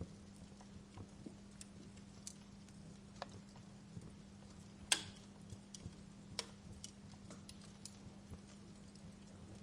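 Wood fire burning in a fireplace, crackling with irregular sharp pops and snaps, the loudest pop about five seconds in. A faint steady low hum runs underneath.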